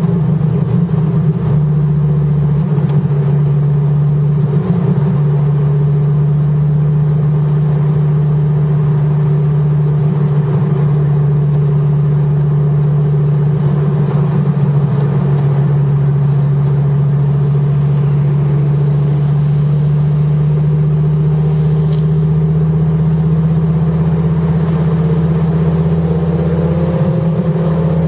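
Dodge Viper GTS's V10 engine running at a steady, even speed, heard from inside the cabin. Its pitch starts to rise a little near the end as the car picks up speed.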